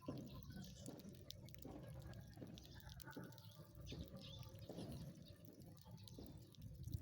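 Faint, scattered sparrow chirps, short high calls, over a low steady background rumble.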